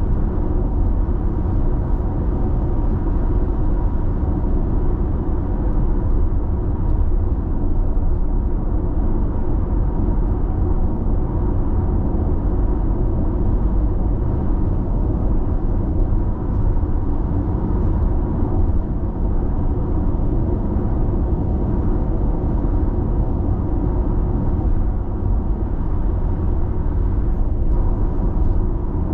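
Steady road noise inside a car cabin at constant expressway speed: a low tyre and engine rumble with wind hiss.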